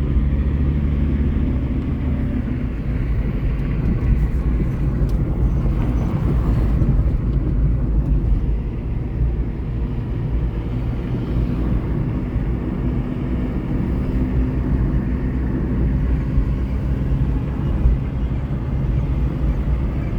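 A car on the move: a steady low engine drone and road noise, with no sharp events.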